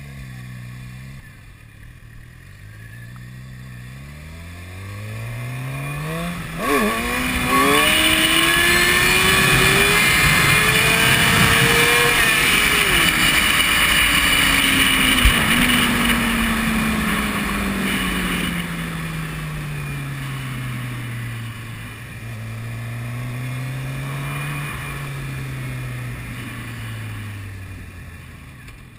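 2005 Suzuki GSX-R 750's inline-four engine pulling away and revving up through several quick gear changes, then climbing hard in one long pull before winding down as the bike slows. Heavy wind noise rushes over the rider-worn camera's microphone at speed.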